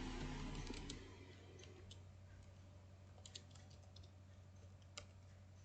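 Computer keyboard and mouse clicks: a quick run of keystrokes in the first second, then scattered single clicks, the sharpest about five seconds in, over a faint steady low hum.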